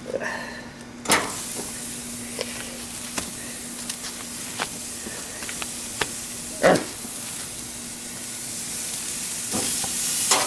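Steaks sizzling on a barbecue grill: a steady frying hiss that starts about a second in, with a few scattered clicks and pops.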